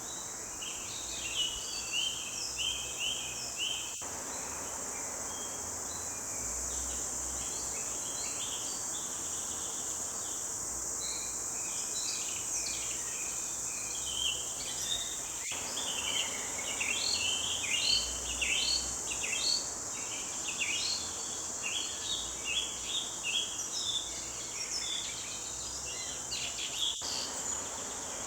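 Several songbirds chirping and singing in quick repeated phrases, busier in the second half, over a steady high-pitched insect drone.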